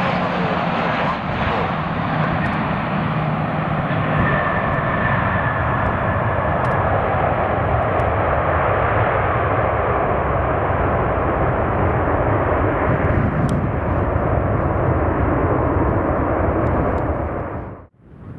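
Fixed-wing aircraft engines running with a steady, loud roar, with a faint high tone partway through; the sound cuts off abruptly just before the end.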